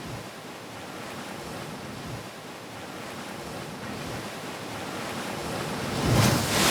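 Sea waves washing in, a steady rush that builds to a loud surge near the end.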